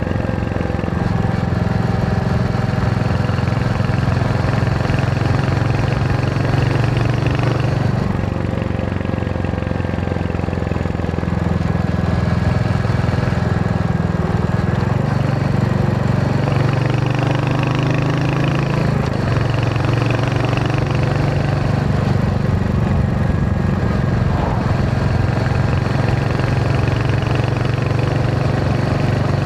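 Royal Enfield Hunter 350's single-cylinder engine and exhaust running under way, with the engine note dropping and rising around eight seconds in and again between about sixteen and nineteen seconds, as engine speed changes.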